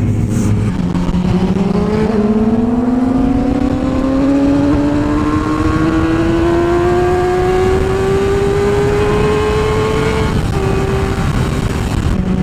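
Motorcycle engine pulling steadily, its pitch rising slowly for about nine seconds, then dropping with a gear change near the end, over steady wind and road noise.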